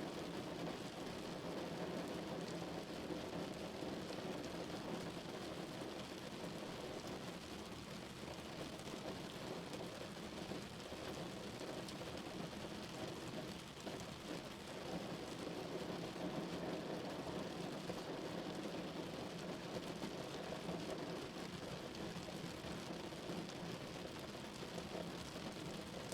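Steady rain falling on a car's roof and windows, heard from inside the vehicle as a dense, even patter.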